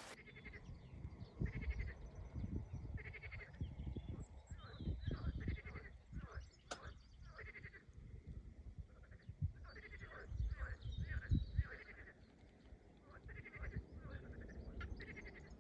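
Bleating from sheep or goats: many short calls, one after another, over a low wind rumble on the microphone.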